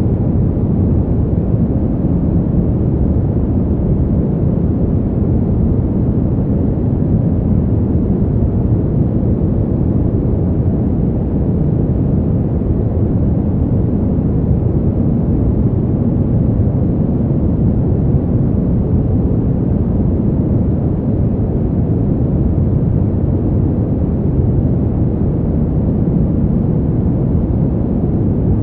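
Steady, deep wind noise of a winter-wind sleep track, low and dull with little hiss, holding an even level with no gusts or changes.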